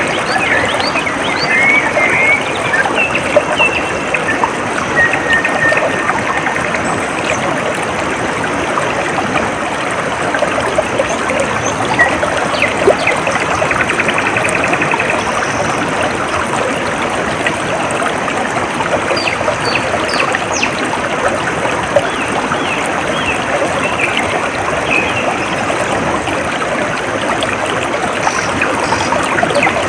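A small stream trickling and babbling steadily, with birds chirping and giving short trills now and then over the water.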